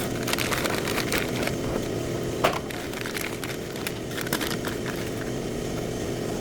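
Steady low machine hum with scattered light clicks and clinks of tools and parts being handled, the sharpest about two and a half seconds in.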